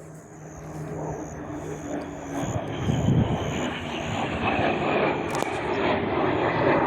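BAE Hawk jet trainer's turbofan engine roaring as the jet approaches, growing steadily louder, with a faint high whine on top.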